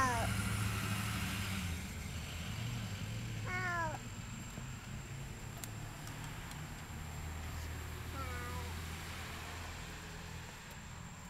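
A cat meowing three times, a few seconds apart, each short call falling in pitch, over a low steady rumble.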